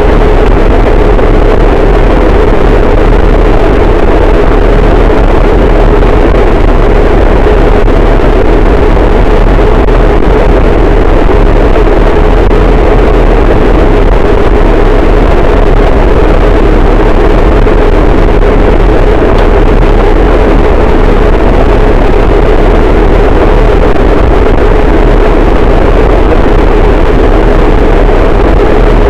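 Harsh noise wall: a very loud, unchanging wall of distorted noise, heaviest in a deep rumble and a thick low-middle band, with no rhythm, pauses or changes.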